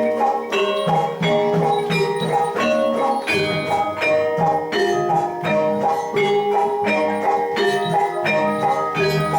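Javanese gamelan music for jathilan: bronze metallophones strike a repeating melody in a steady rhythm.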